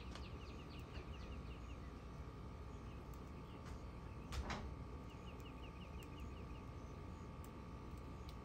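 A bird singing runs of quick, short descending notes, several per second, over a steady low rumble. About four and a half seconds in there is a brief burst of noise, the loudest moment.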